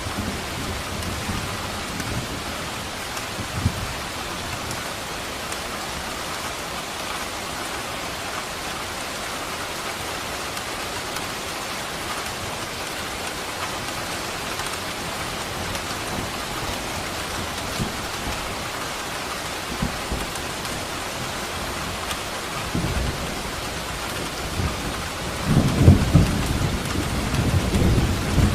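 Steady rain falling, with thunder: faint low rumbles in the first few seconds, then a louder rolling rumble of thunder starting about 25 seconds in.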